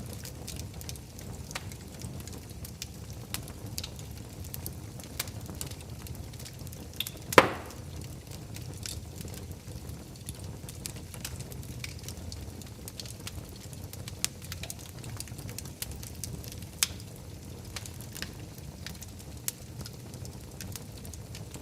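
Wood fire burning in a fireplace: a steady low rumble with scattered crackles and pops, and one sharp loud pop about seven seconds in.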